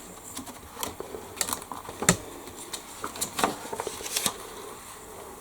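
Pages of a paper instruction booklet being turned and handled: a run of crisp rustles and clicks lasting about three seconds, the sharpest about two seconds in.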